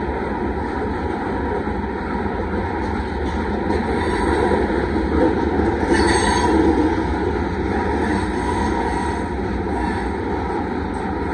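Covered hopper cars of a freight train rolling past: a steady rumble of steel wheels on the rails, a little louder about halfway through.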